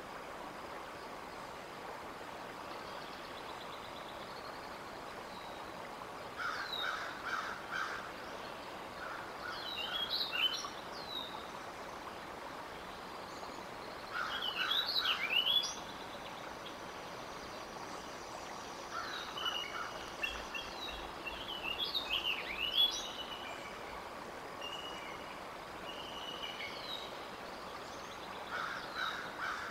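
Wild birds calling in short bursts of quick chirps and slurred whistles, about five times, over a steady outdoor background hiss.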